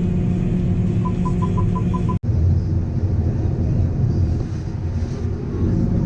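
Farm machinery engine running with a steady low drone, heard from inside the cab. About a second in comes a quick run of short, high electronic beeps, and the sound cuts out for an instant about two seconds in before the drone resumes.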